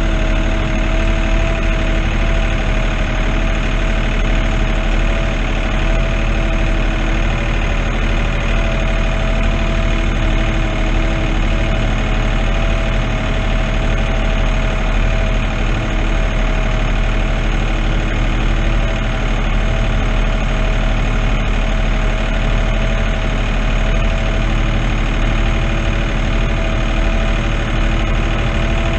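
New Holland TN70 tractor's diesel engine running steadily at a constant speed.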